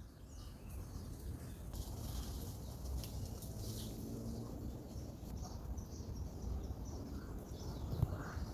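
Forest ambience: faint, scattered bird chirps over a steady low rumble, with a few knocks near the end.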